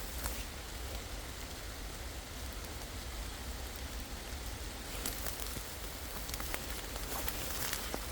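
Outdoor forest sound: a steady crackling hiss with scattered sharp clicks and snaps, more of them in the second half, over a low rumble of wind on the microphone.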